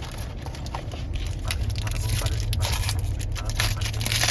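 Trading cards and their pack wrapper being handled: a busy run of quick scrapes, flicks and crinkles that grows denser in the second half. Under it runs a steady low rumble of a car cabin.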